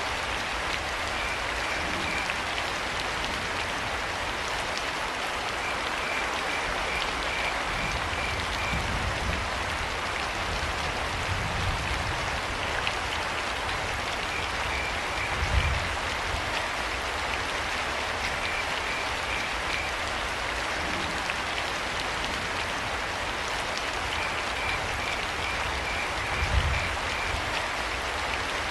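Steady rain falling, with crickets chirping in short quick trains every few seconds. Two brief low rumbles stand out, one about halfway through and one near the end.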